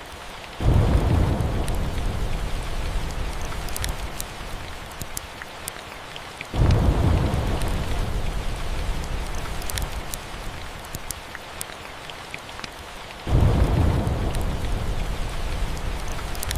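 Steady rain with three claps of thunder, each starting suddenly with a low rumble that rolls off over several seconds, coming about six seconds apart. Scattered small crackles sound over the rain.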